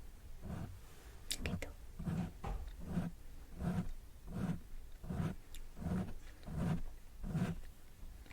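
Close-miked ASMR strokes repeating evenly, about one every three-quarters of a second, with a couple of sharp clicks a little over a second in.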